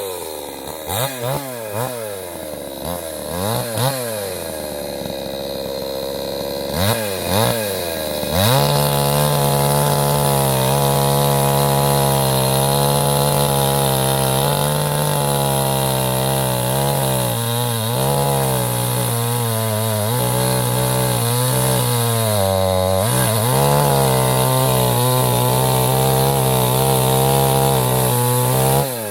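Salemmaster two-stroke gasoline chainsaw running. Its engine is blipped up and down several times, then held at high speed from about a third of the way in, with a few brief dips in pitch.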